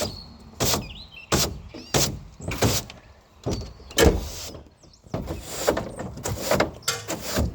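A run of irregular knocks and clanks, about nine sharp hits spaced unevenly, from hands-on work on a pickup truck's body and bed.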